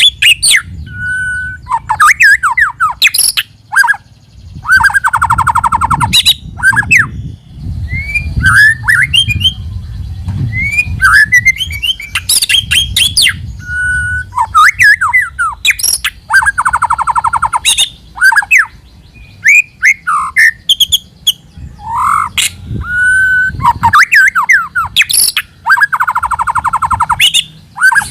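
White-rumped shama (murai batu) singing a varied run of loud whistled, slurred notes and sharp clicks, broken three times by a harsh buzzy rattle.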